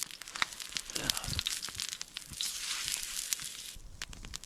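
Wood campfire crackling: a dense run of sharp pops and snaps over a steady hiss.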